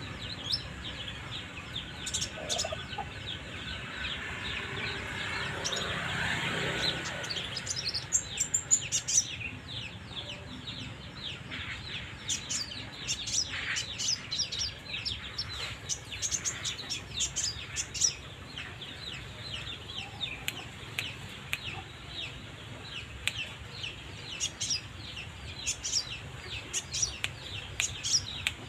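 Songbird singing a long, continuous run of rapid high chirps and short trills.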